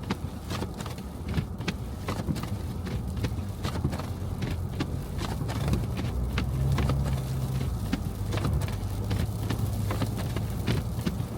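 Car driving through snow: a low engine and road hum that grows stronger about six seconds in, with irregular sharp taps and clicks throughout.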